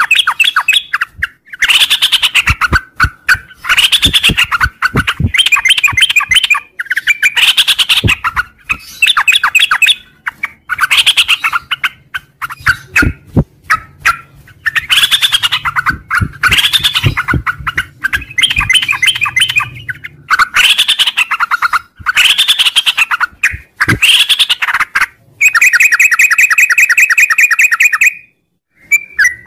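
Yellow-vented bulbul (trucuk) singing loud, bubbly phrases of quick notes, one every second or two. Near the end comes a faster, even trill about two and a half seconds long.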